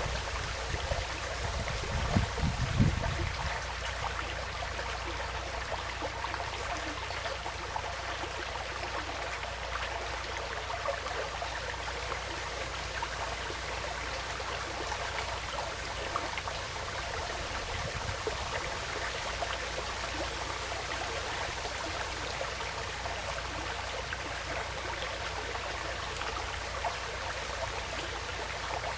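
Forest stream flowing steadily, a continuous even rush and trickle of water. Wind buffets the microphone with low rumbling gusts in the first three seconds.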